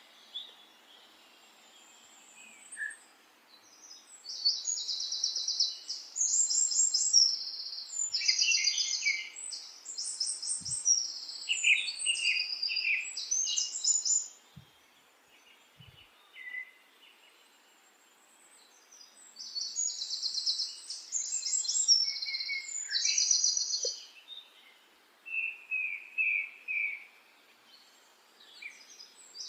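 Small songbird singing: bouts of rapid, high chirps and trills a few seconds long, with short pauses between them.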